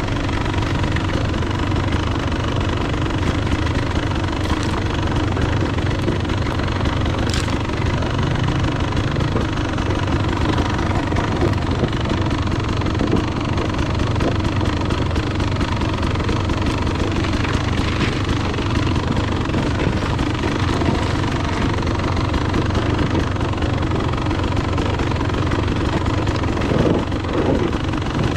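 Enduro dirt bike engine running steadily, a fast, even chatter of firing strokes with no clear rise or fall in revs.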